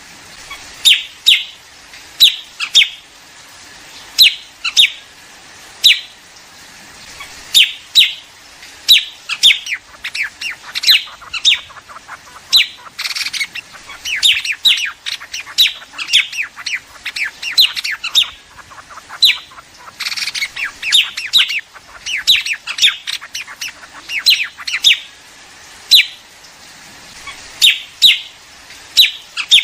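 Recorded calls of liếu điếu birds, used as a flock-calling lure for bird trapping: loud, sharp, short chirps that drop in pitch, repeated in pairs and clusters, thickening through the middle into many birds calling over each other.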